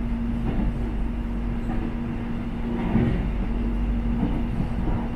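Electric airport train running on the rails: a steady low rumble with a constant hum, and a few light knocks about three seconds in.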